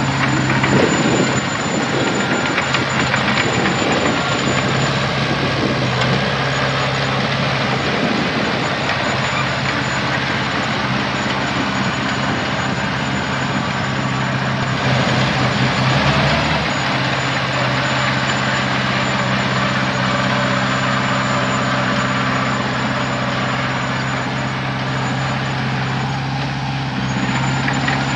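Heavy diesel engine running steadily, a continuous drone that stays at one level with small surges in loudness.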